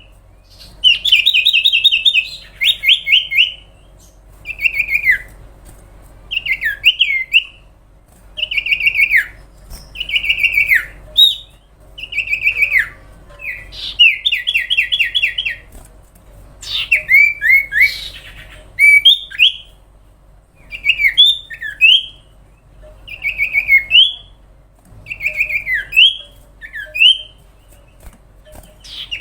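Common iora (cipow) singing its 'sirtu' song: short bursts of rapid high chirps and down-slurred whistled notes, repeated about every two seconds with short pauses between.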